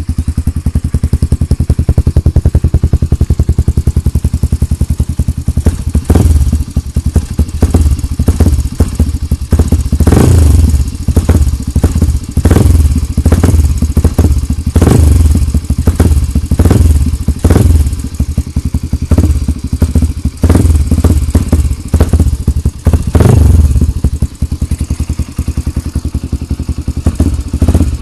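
Yamaha XTZ125's single-cylinder four-stroke engine running through an aftermarket titanium muffler. It idles steadily, then from about six seconds in the throttle is blipped again and again in short revs.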